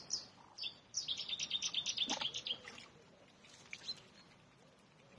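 A small songbird singing: a few high chirps, then a fast trill of repeated high notes lasting about a second and a half, and a couple more chirps near the end. There is one short knock about two seconds in.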